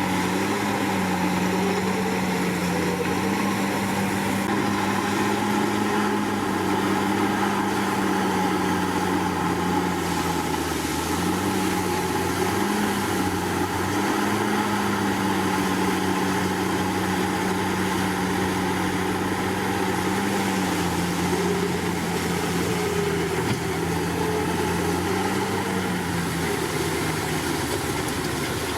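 Komatsu D61PX bulldozer's diesel engine running steadily, its pitch dipping and rising slightly a few times.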